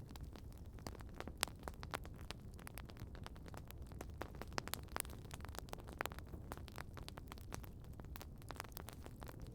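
Outdoor wood campfire crackling: irregular sharp pops and snaps, several a second, over a low steady rumble.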